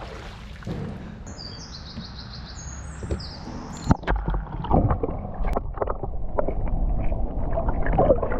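Small aluminium john boat on the water: a low rumble with sloshing and scattered knocks against the hull, growing louder from about four seconds in, with a brief high buzzing near the start.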